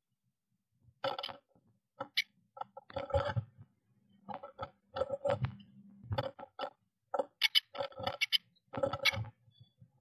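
A blue tit's claws scratching and tapping on a wooden nest box, heard from inside the box: an irregular run of knocks and scrapes starting about a second in.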